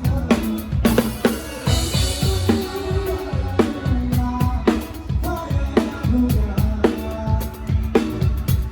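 Live band playing an instrumental passage with the drum kit loudest: steady kick drum and snare hits under bass and keyboard or guitar notes, with a cymbal crash ringing out about two seconds in.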